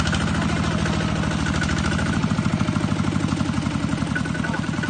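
An engine running steadily with a fast, even pulse; its note shifts slightly about two seconds in.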